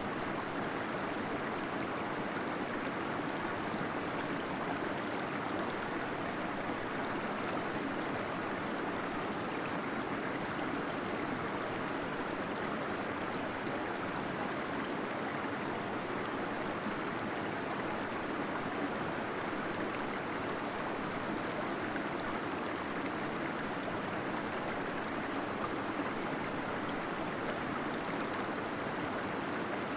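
Small waterfall inside a cave, water pouring and gurgling in a steady, unbroken rush.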